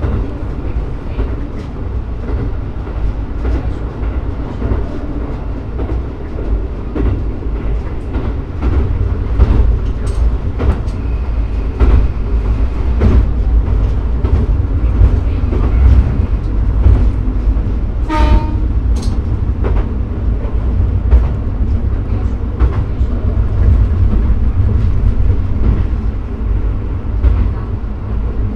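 Shimabara Railway diesel railcar running along the track, heard from the cab: a steady low engine and running rumble with irregular wheel clicks over the rail joints. One short tone sounds about two-thirds of the way through.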